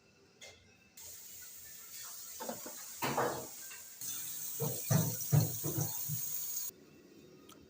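Kitchen dishes and utensils knocking and clattering over a steady hiss that starts abruptly about a second in and cuts off near the end.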